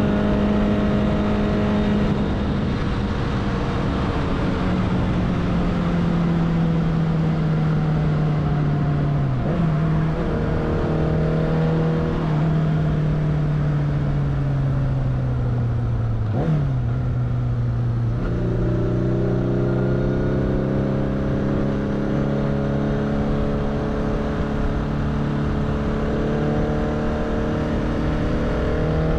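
Kawasaki GT550 cafe racer's air-cooled inline-four engine under way on the road. Its note falls slowly for most of the first half, with brief changes in pitch about nine and sixteen seconds in, then jumps back up about eighteen seconds in and pulls steadily, over a constant rush of wind and road noise.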